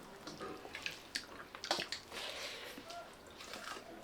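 Quiet sounds of a meal of rice and curry: a few light clicks and taps and small wet noises of eating from plates.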